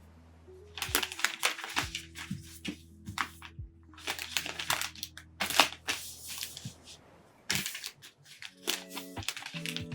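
Calm background music with bursts of crackling and crinkling from flowers and stems being handled, coming in clusters about a second in, midway and near the end.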